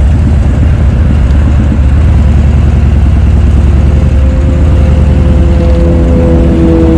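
Steady low rumble of a motorcycle engine idling, with traffic on the bridge. About four seconds in, an engine hum comes in and grows louder, rising slightly in pitch.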